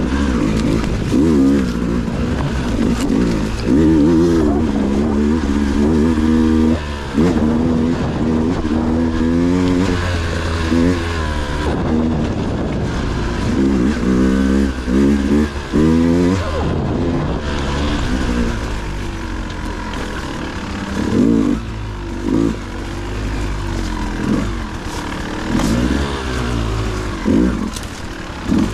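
Dirt bike engine revving up and down in repeated short bursts of throttle over a steady low drone, as in slow, technical off-road riding.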